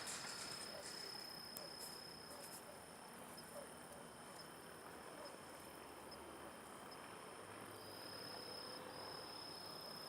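A faint, steady, high-pitched shrill tone held for several seconds with a few brief breaks, over a low background hiss. It is the long 'chillido' (screech) heard in the air, whose source is unseen; the recorder wonders whether it could be an owl.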